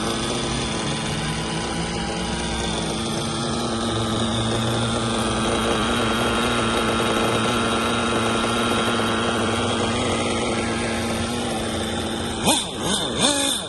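Small nitro engines of 1/8-scale RC cars running steadily, several at once. Near the end, a few quick sharp revs with the pitch sweeping up and down.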